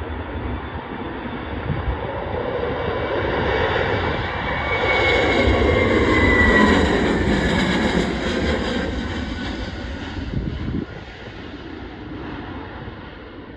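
Airbus A321neo jet airliner with Pratt & Whitney geared turbofan engines passing by: the engine noise swells to a peak about six seconds in, with a whine that falls in pitch as it passes, then fades away.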